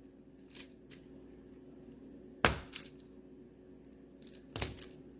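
A knife chopping through a hard, crumbly wax melt, the wax cracking and snapping apart in a few sharp cracks, the loudest about halfway through and two more close together near the end.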